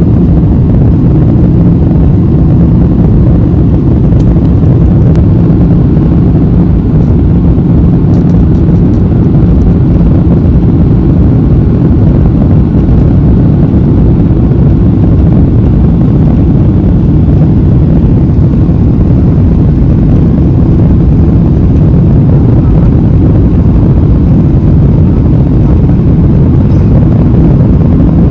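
Airliner cabin noise heard from a window seat: a loud, steady low rumble of engines and airflow with a faint hum.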